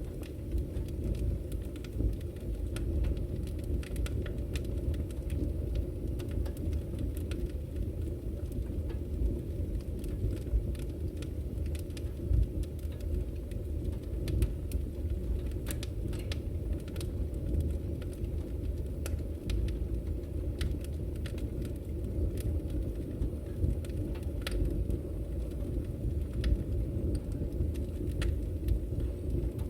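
Wood fire burning in a fireplace: a steady low rumble with irregular sharp crackles and pops of the firewood, a few of them louder.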